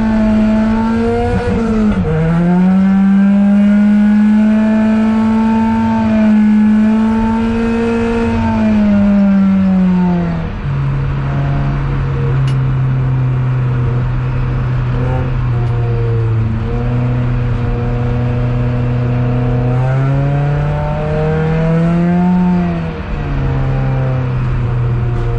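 Toyota Altezza's engine heard from inside the cabin, held high in the revs with a brief dip about two seconds in. About ten seconds in the pitch drops to a lower level, then rises and falls with the throttle and drops sharply near the end.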